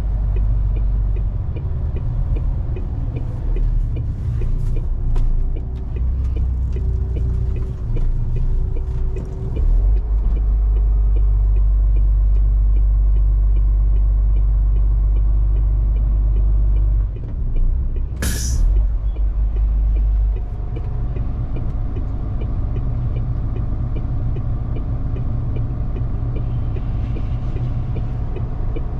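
Diesel engine of a MAN TGS 470 hp truck running under way, a deep steady drone whose level and pitch shift several times. About eighteen seconds in comes one short, sharp hiss of released air.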